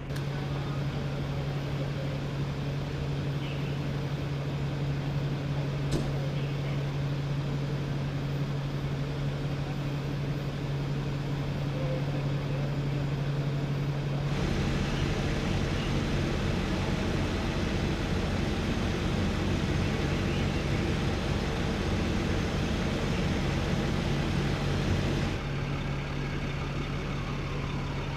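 Steady motor-vehicle running noise with a constant low hum; the sound changes abruptly about halfway through and again near the end.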